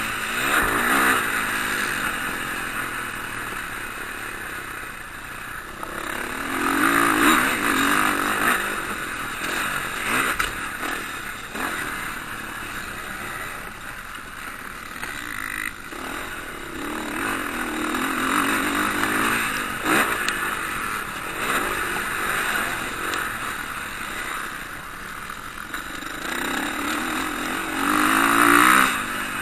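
Motocross motorcycles racing past on a dirt track, their engines revving hard and rising and falling in waves as riders come by, loudest near the end.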